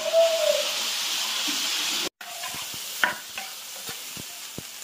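Diced meat sizzling hard in hot oil in a large iron wok. After a cut about two seconds in, the sizzle is quieter, with the spatula scraping and tapping against the wok now and then.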